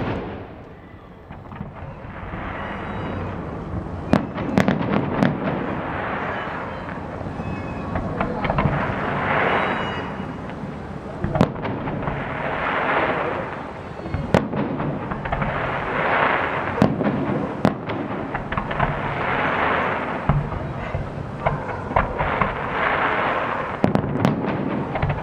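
Fireworks display: sharp bangs of aerial shells bursting at irregular intervals, over recurring swells of crackling, hissing noise every few seconds.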